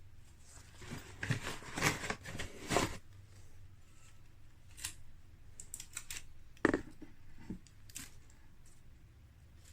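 Handling noises with no motor running: rustling and scraping for a couple of seconds, then scattered clicks and one sharp knock a little past the middle.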